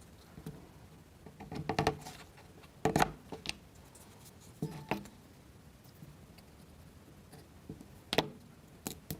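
Irregular short clicks and taps of small plywood model-kit parts and wooden toothpicks being handled and pressed together, the loudest about 2, 3 and 8 seconds in.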